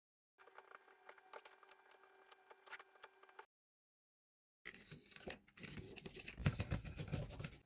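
Faint, irregular scraping, crackling and clicks from hand work on a PVC pipe piece, louder in the second half.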